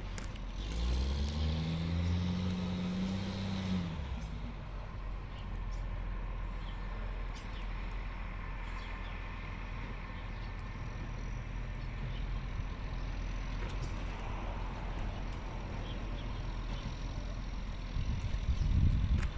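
Garbage truck's diesel engine revving up, rising in pitch for about three seconds before dropping away, then a steady vehicle rumble with a few low bumps near the end.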